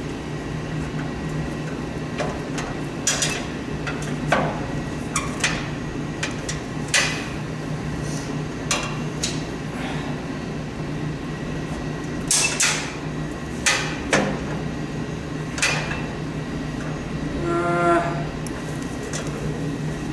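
Scattered metal knocks and clanks of hand tools working on the rusty snowblower's parts, over a steady low hum. A brief pitched sound comes near the end.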